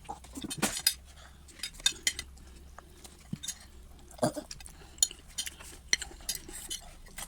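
Cutlery clinking and scraping against a plate in irregular taps while eating rice and vegetable stew.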